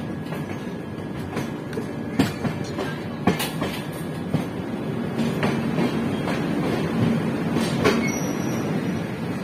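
Indian Railways express train running out of a station, heard from aboard a coach: a steady rumble of wheels on rail, with irregular sharp clacks as the wheels cross rail joints and points.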